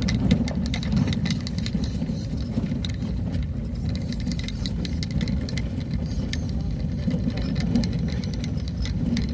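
Vehicle travelling along a road: a steady low rumble with many small rattles and knocks throughout.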